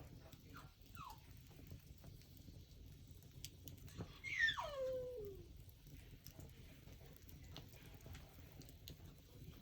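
An animal's whining cry that falls steeply in pitch over about a second, about four seconds in, after two short falling squeaks near the start; faint scattered clicks underneath.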